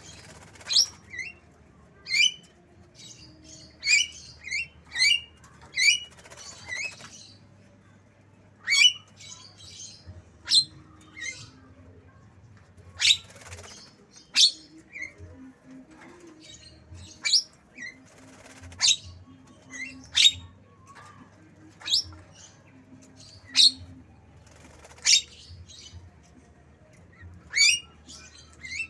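Javan myna (jalak kebo) mimicking white-rumped shama (murai batu) song: short, sharp whistled notes that sweep steeply in pitch, repeated every second or two.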